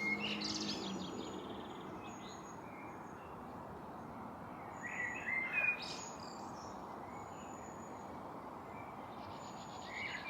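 Several songbirds singing: short warbling, trilling phrases near the start, in the middle and near the end, and a thin high note repeating every couple of seconds, over a steady background hiss.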